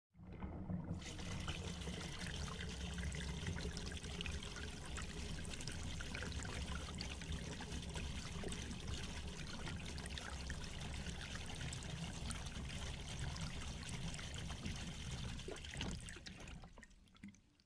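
Steady rain falling onto shallow standing water, a dense hiss of many small drop splashes over a low rumble. It fades out near the end.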